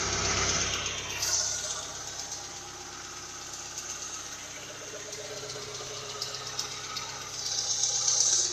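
Engine idling steadily with a faint, regular ticking whose cause is unknown. A louder rushing hiss comes in the first second and again near the end.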